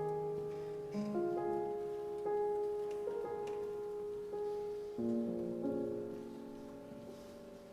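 Soft, slow classical concerto music with piano prominent, held notes and chords changing about once a second.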